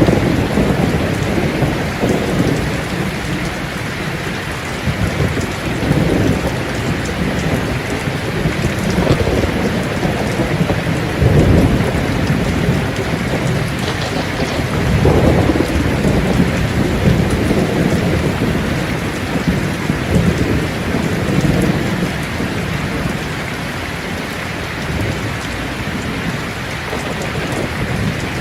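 Steady heavy rain falling, with low rolling thunder rumbling again and again, the strongest rumbles a little before and a little after the middle.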